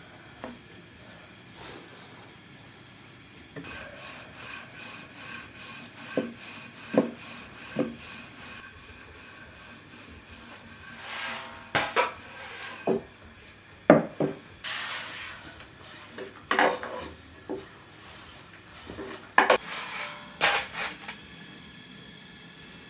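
Food preparation on a wooden surface: rubbing and scraping, a run of light, evenly spaced taps, then a series of heavier separate knocks.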